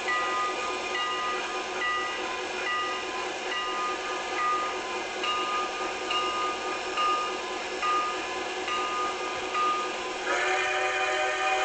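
Train bell ringing steadily, about one ding a second, then the train's whistle sounds about ten seconds in and holds as a steady chord.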